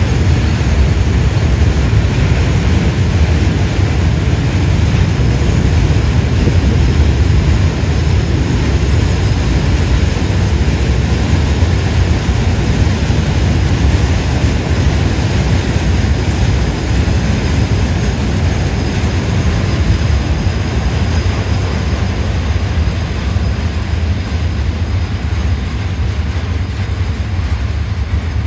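Container-laden flatbed freight wagons rolling past on the track: a steady rumble of steel wheels on rail, easing slightly near the end.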